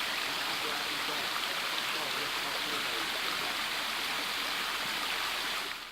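Steady rush of a cascading mountain waterfall and creek. It fades out near the end.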